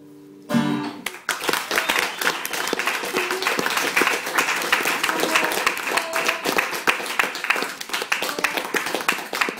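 A last acoustic guitar chord sounds briefly, then from about a second in an audience claps steadily, with a few voices among the applause.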